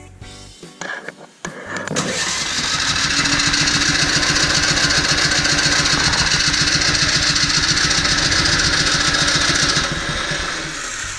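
Husqvarna ST330T snowblower engine being cranked, turning over with an even rapid pulsing for about eight seconds from about two seconds in, then winding down near the end without settling into a run.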